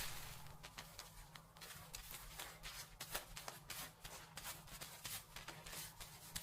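Fingers rubbing and scratching through hair and scalp close to the microphone: a quiet, irregular rustling crackle made of many short scratches.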